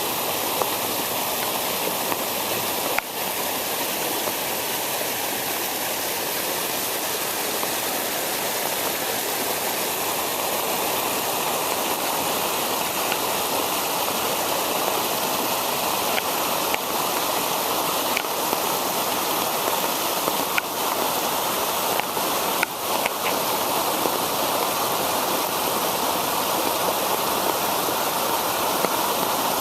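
Parking-lot storm water runoff rushing steadily, a dense, even wash of water noise, with a few brief clicks.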